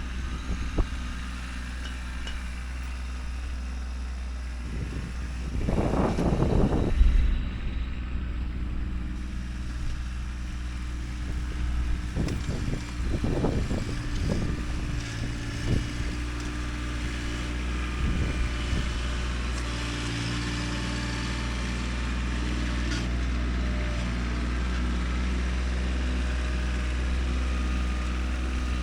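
Kubota tractor's diesel engine running steadily while working dirt with a plow, with louder surges of working noise about six seconds in, around thirteen seconds and near eighteen seconds.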